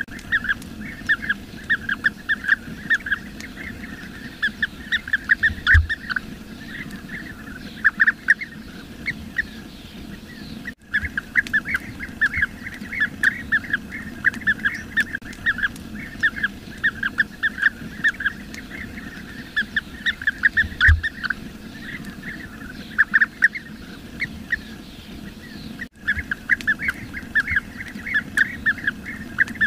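Bee-eaters calling in quick, overlapping series of short, loud calls, with two brief breaks in the recording about 11 and 26 seconds in.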